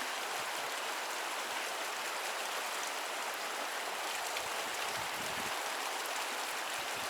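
Loud mountain creek water rushing, a steady, unbroken noise.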